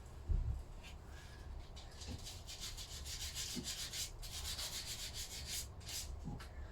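Hand sanding with a spongy sanding block, rubbing paint and residue off a gasket face of a Lister D engine's crankcase, in a run of quick back-and-forth strokes. A single thump near the start.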